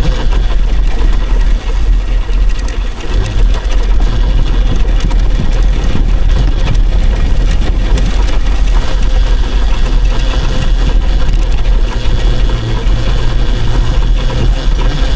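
Steady loud rumble of wind buffeting the microphone while riding an electric dirt bike, with a faint motor whine underneath.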